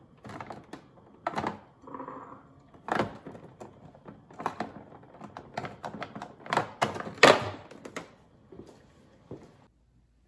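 Irregular clicks and knocks of the small plastic Saeco Spidem espresso machine and its parts being handled, the loudest knock about seven seconds in.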